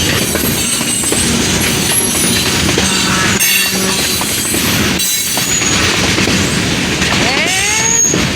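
Freight train cars rolling past close by, steel wheels on rail making a steady rumble and clatter. Thin, high-pitched wheel squeals come and go over it.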